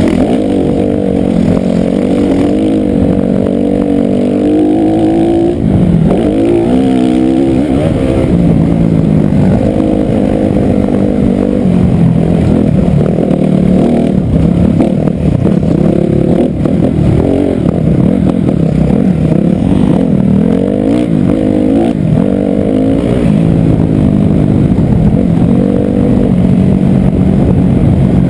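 Motocross dirt bike engine revving and easing off as it is ridden, its pitch rising and falling again and again.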